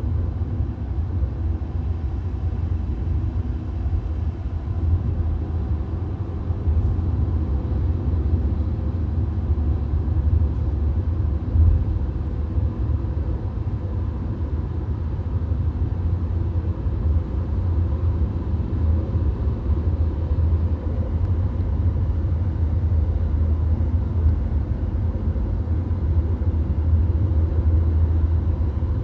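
Steady road rumble inside a VW Golf's cabin cruising on a motorway: a deep, even drone of tyres and engine, with a faint steady high tone above it.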